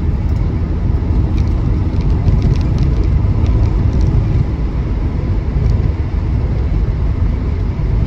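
The factory 3.5-litre aluminium Rover V8 of a 1974 MGB GT V8 running as the car drives along, heard from inside the cabin together with road noise: a steady low rumble.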